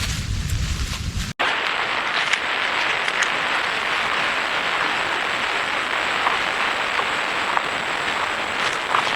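Outdoor forest ambience: a low rumble cuts off abruptly about a second in, giving way to a steady hiss with scattered light ticks.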